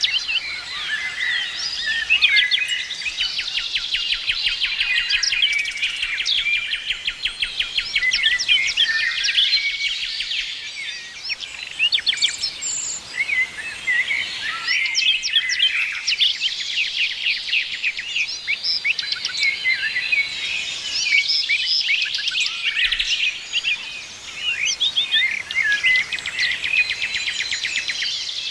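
Several songbirds singing and chirping at once, a dense chorus of quick chirps and rapid trills.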